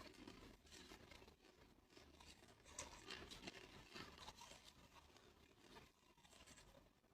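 A person biting and chewing chunks of clear ice: faint, irregular crunching and crackling, busiest in the middle.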